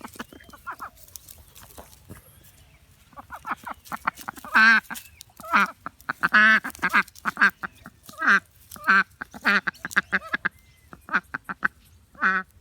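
Ducks quacking: a run of short, loud quacks beginning about three seconds in, coming roughly one or two a second.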